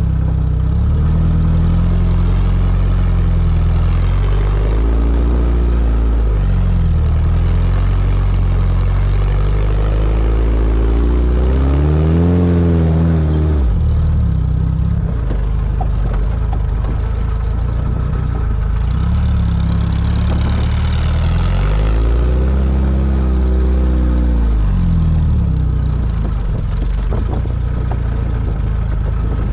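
Sporting trials car's engine running under load, its revs rising and falling again and again as it works over a grass hillside; about halfway through the revs climb and then drop off sharply.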